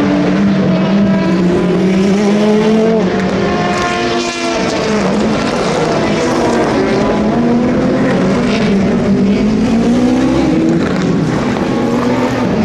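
Race cars running past at speed, several engine notes overlapping, their pitch rising and then falling as each car goes by.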